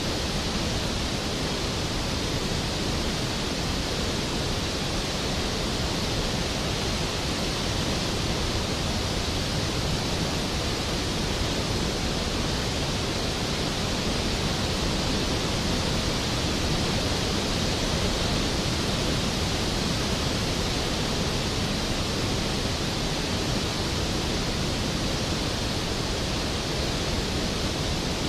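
Large waterfall, Skógafoss, crashing steadily into its plunge pool: a loud, unbroken rush of water.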